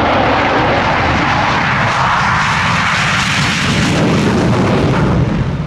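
Loud roar of Blue Angels F/A-18 Hornet fighter jet engines passing by in flight, swelling in the middle and easing slightly near the end.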